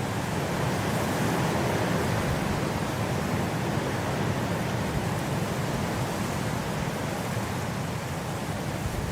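Blizzard wind blowing, a steady dense rushing noise that swells a little about a second in and eases slightly toward the end.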